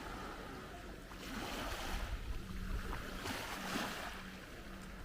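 Sea waves washing in on the shore, surging twice, with wind rumbling on the microphone.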